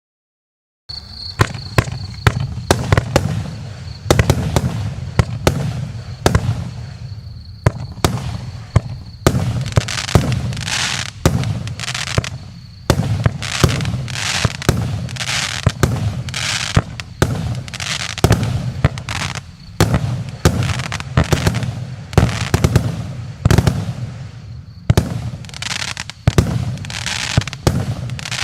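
Joker Fireworks 'Mr Ква' 100-shot fireworks cake (0.8–1.2 inch shells) firing, starting about a second in: rapid launch thumps and bursts, several a second, with crackling in between. A thin, steady high whistle runs over the first several seconds.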